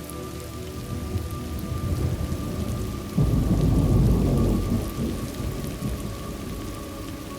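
Steady rain with a roll of thunder: the rumble builds, breaks in loudly about three seconds in, and fades away over the next few seconds.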